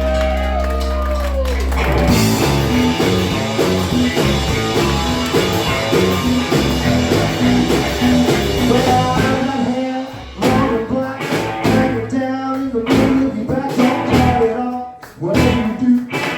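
Rock and roll band playing live with guitar. A held chord ends about two seconds in, and the band then plays a driving, rhythmic passage.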